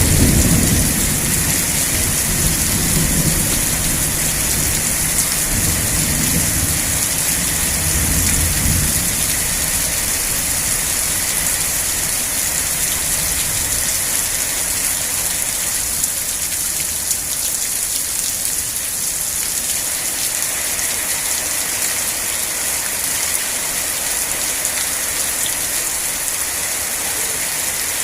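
Steady rain hissing, with a roll of thunder rumbling low at the start and dying away over the first nine seconds or so.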